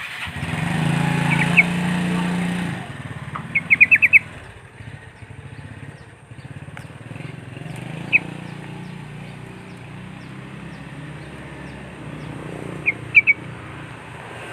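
A motorcycle passes close by in the first three seconds, its engine hum then dropping to a fainter low drone. Short, sharp, high bird chirps come over it in clusters: a rapid run of about five around four seconds in, a single one midway, and a few more near the end.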